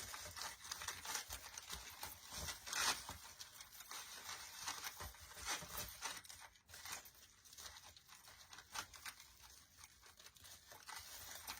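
Faint, irregular rustling and crinkling of artificial pine branches and decorative picks being handled and pushed into place, with scattered small scratchy clicks.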